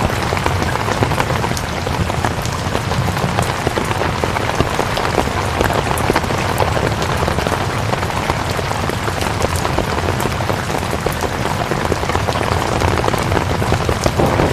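Steady rain falling, with many individual drops ticking through an even hiss.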